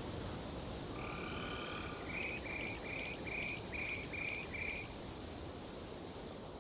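An animal call over a steady outdoor hiss: one drawn-out pitched note, then a run of about seven short, evenly spaced repeated notes at about two to three a second.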